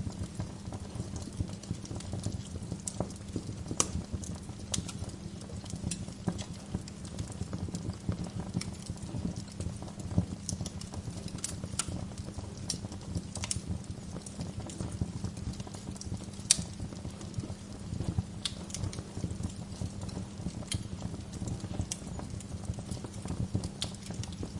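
Wood fire burning in a fireplace, a steady low rumble of flames under dense crackling, with a few louder sharp pops from the logs, the loudest about sixteen seconds in.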